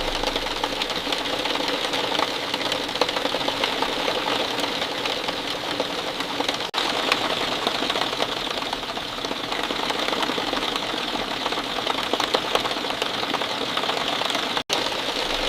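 Steady rain falling, a dense, even pattering of many small drop impacts, with a split-second gap about halfway through.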